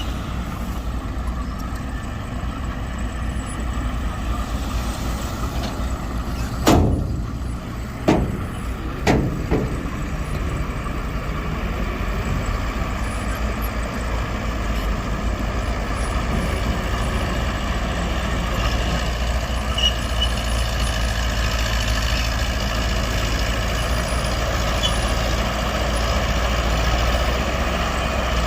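Heavy diesel earthmoving machinery running steadily. About a quarter of the way in there are three sharp, short bangs or hisses a second or so apart.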